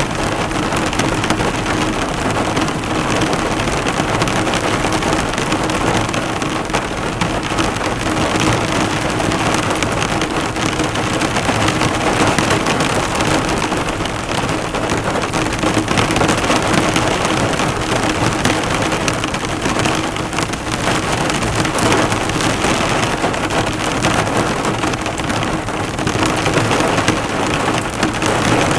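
Heavy rain falling on a car, drops striking and bouncing off the bonnet in a dense, steady hiss, with a faint steady low hum under it.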